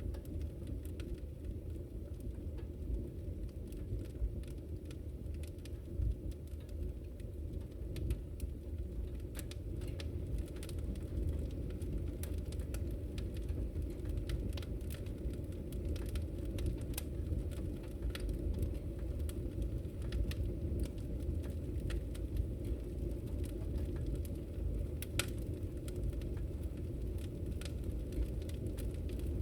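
Wood fire crackling in a fireplace: frequent scattered sharp pops and snaps over a steady low rumble of the flames.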